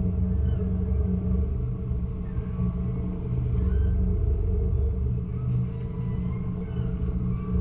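Crew-transfer launch's engine running steadily, a low even rumble.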